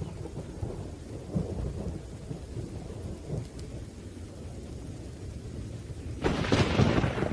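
Thunderstorm with rain: low rolling thunder rumbles, then a sudden, louder, sharper crack of thunder a little after six seconds in.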